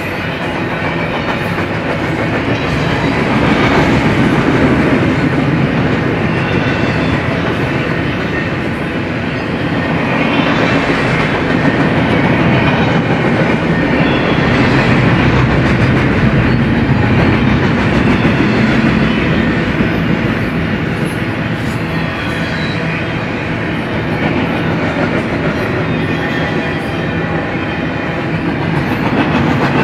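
Double-stack intermodal freight train's container well cars rolling past, their steel wheels running on the rails in a steady, loud rush.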